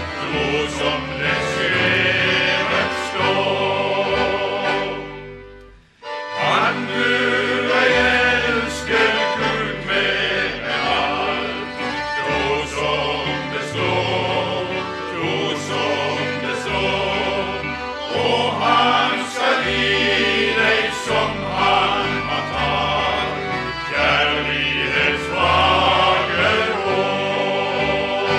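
Male vocal group singing a gospel song in harmony with instrumental accompaniment and a stepping bass line. The music fades away about five seconds in and starts again sharply a moment later.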